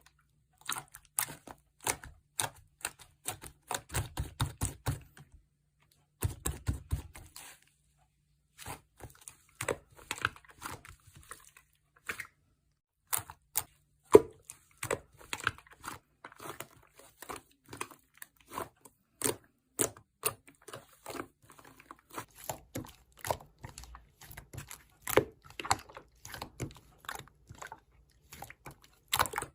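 Slime being squeezed and poked by hand: a quick, uneven run of sticky pops and small crackles, with a few short pauses.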